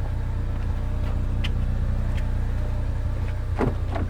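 Rolls-Royce Ghost V12 idling steadily after a cold start, with a few light clicks near the end. The owner suspects a small crack is letting coolant into the engine, where it is burned off as smoke and steam from the exhaust.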